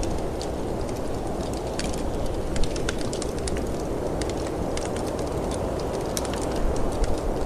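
Wood fire crackling with frequent sharp pops over the steady rush of snowstorm wind; a louder pop comes about two and a half seconds in and a few more near the end.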